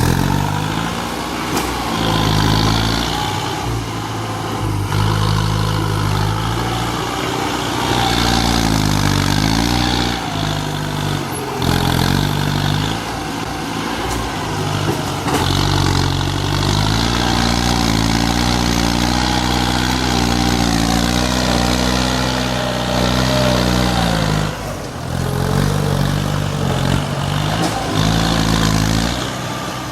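Kubota tractor's diesel engine running under varying throttle, its speed rising and falling several times with a few brief dips.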